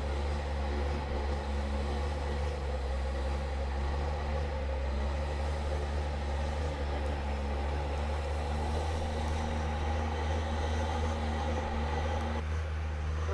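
Long-tail boat's engine running hard and steady at high speed, a constant low drone.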